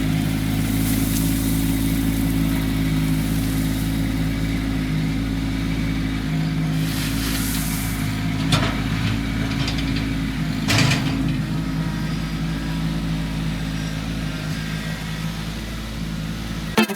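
Kubota LX2610 compact tractor's three-cylinder diesel engine running steadily, with a few sharp knocks about halfway through.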